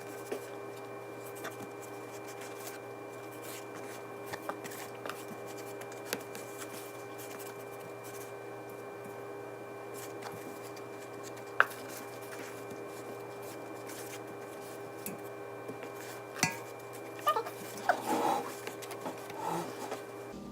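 A steady hum of several held tones, with scattered light clicks and soft handling noises; one sharper click comes about eleven and a half seconds in.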